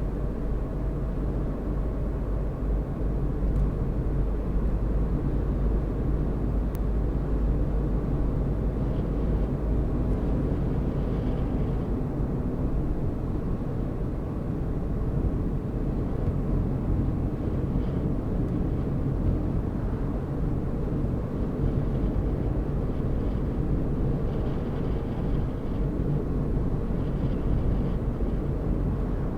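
A car driving at a steady pace: an even low rumble of engine and tyre road noise that stays level throughout.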